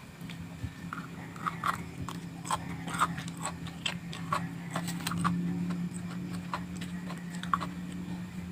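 Close-up chewing and biting of crisp raw vegetables: irregular crunches and wet clicks of the mouth, with a steady low hum underneath.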